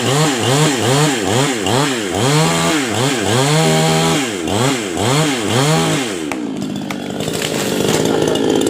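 Chainsaw engine repeatedly revved up and down, about twice a second, held at high revs for a moment midway. From about six and a half seconds in it settles into a steadier, rougher running sound.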